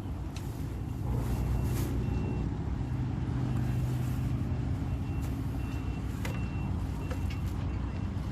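A motor vehicle's engine running with a steady low hum, a little stronger from about a second in, and short high-pitched tones at uneven intervals over it.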